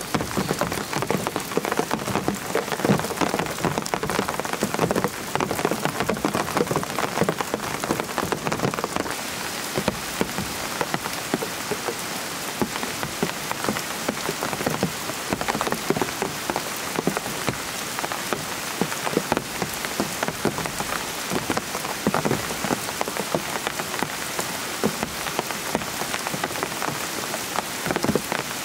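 Heavy rain falling steadily: a dense hiss made of countless close, sharp drop impacts, even throughout.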